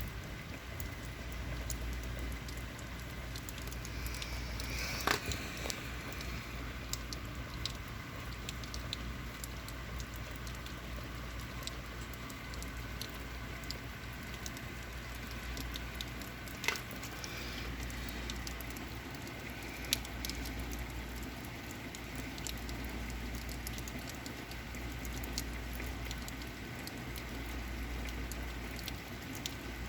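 Steady rain falling, with drops pattering and ticking on outdoor surfaces and a few sharper single drip clicks, the loudest about five seconds in.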